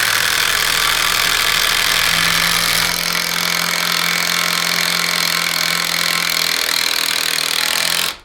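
Two brushless 1/4-inch impact drivers, a Kobalt and an Enertwist, hammering at the same time as they drive fasteners, a loud steady rattle. The sound dips a little about three seconds in, and the remaining driver runs on until it cuts off suddenly near the end.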